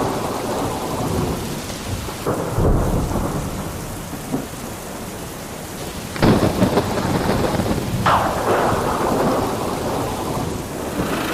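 Thunderstorm: steady rain with rumbling thunder, sharp claps breaking out about six and eight seconds in and a lesser one about two seconds in.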